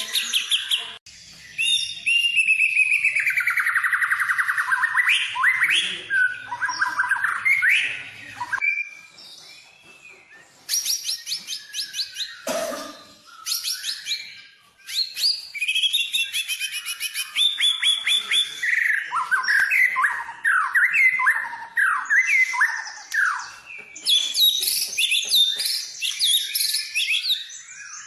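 White-rumped shama (murai batu) singing a long, varied song packed with mimicked phrases: clear whistles, rapid trills and quick rising and falling notes, with a short harsh rasping call about halfway through and a couple of brief pauses.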